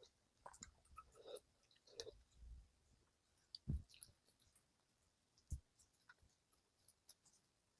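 Faint, close-miked chewing and wet mouth clicks while eating gamjatang, with two soft low knocks about three and a half and five and a half seconds in.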